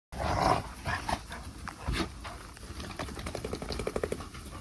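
Dogs playing roughly: a short bark near the start, then a quick run of low rhythmic huffing pulses a little after the middle, with scattered clicks throughout.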